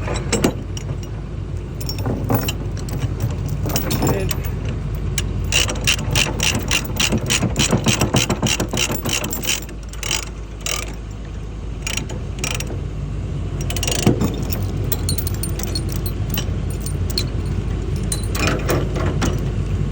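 Steel load-securing chains clanking and a ratchet binder clicking as a chain is tensioned, with a fast even run of clicks for several seconds around the middle. An engine runs steadily underneath.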